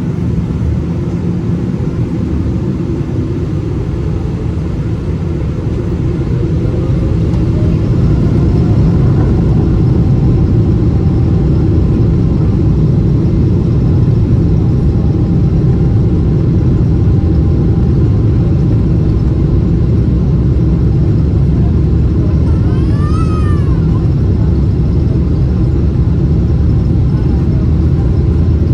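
GE90-115B turbofans of a Boeing 777-300ER at takeoff power: a loud, steady, deep rumble that grows louder about eight seconds in and then holds, with a faint rising whine as the engines spool up.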